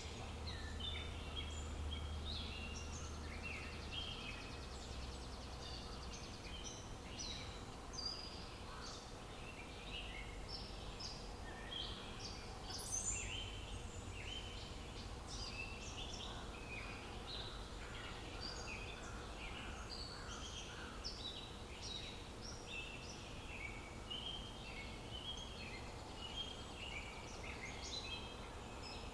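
Many small birds chirping and singing over one another in a dense chorus of short, high notes, over a faint low background rumble.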